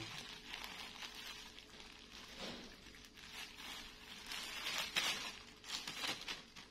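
Thin plastic raincoat crinkling and rustling in faint, irregular bursts as a young monkey tugs at it and pulls it off, loudest about five seconds in.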